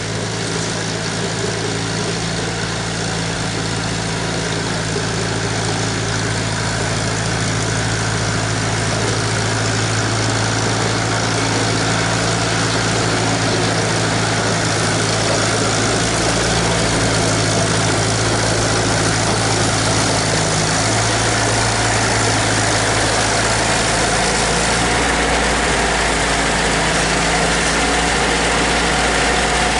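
International 2444 tractor's gasoline engine idling steadily, with a freshly cleaned carburetor and new ignition points. Its note shifts slightly twice in the second half.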